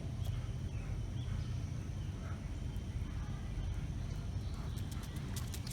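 Outdoor background noise: a steady low rumble with a few faint clicks scattered through it.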